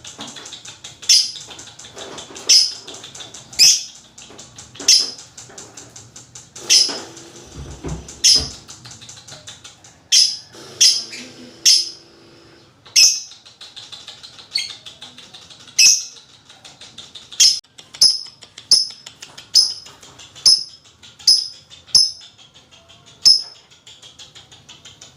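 Lovebird chattering: sharp shrill calls about once a second over a fast, continuous ticking chatter, the calls coming quicker in the second half. A low thump about eight seconds in.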